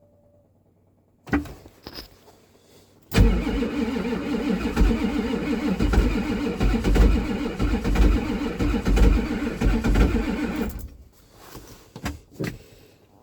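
Ford 7.3 IDI V8 diesel being cranked by its starter on a very cold morning, with a pulsing drone and uneven low thumps as it turns over for about seven seconds without catching, then stops. A sharp click comes about a second in, and a few faint knocks follow the cranking.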